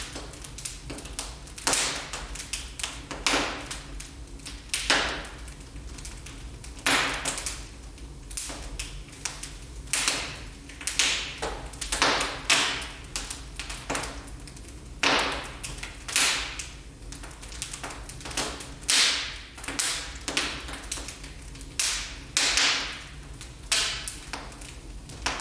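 Wood fire in a fireplace crackling, with sharp pops coming about once or twice a second over a low steady background of the burning fire.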